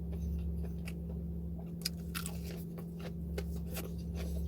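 Close-miked chewing and crunching of food: scattered sharp crunches and mouth clicks, over a steady low electrical hum.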